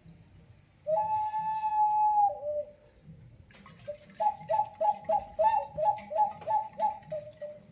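Clay whistling pot giving a bird-like call: about a second in, a held whistle that drops to a lower note, then a rapid warble between the two notes, about three a second, over a crackly background.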